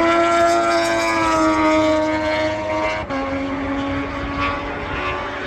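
A MotoGP racing motorcycle engine running at high revs, its pitch sliding slowly down and then dropping a step about three seconds in.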